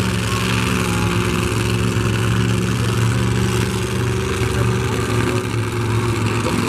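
Monster truck engines idling, a loud, steady low-pitched engine note with no revving.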